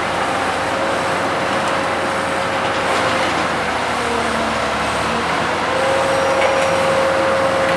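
Heavy diesel machinery of an asphalt-paving crew, a dump truck and an asphalt paver, running steadily. A constant engine noise, with a faint steady whine that drops out in the middle and comes back near the end.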